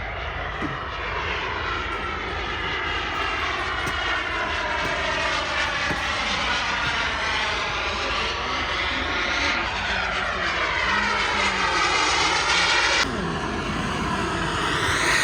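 Radio-controlled model aeroplane flying, its engine and propeller making a continuous buzz whose pitch slowly falls as it passes, then dips and climbs again on another pass. The sound changes abruptly about thirteen seconds in.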